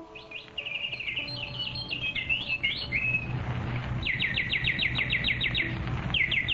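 Birds singing: quick whistled chirps, then a fast trill of repeated falling notes, about six a second, starting about four seconds in and coming again near the end, over a low steady rumble.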